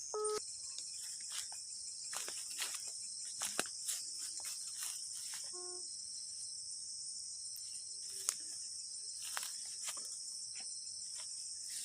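Insects chirring in a steady high-pitched drone, with scattered faint clicks and rustles.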